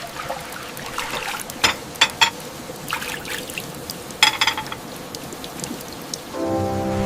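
Water trickling and dripping, with a few sharp, loud drips standing out among softer ones. Soft background music comes back in near the end.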